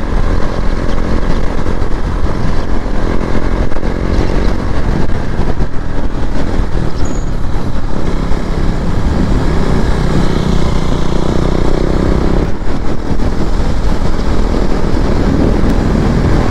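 KTM Duke 390's single-cylinder engine running steadily at cruising speed, with wind noise over the microphone.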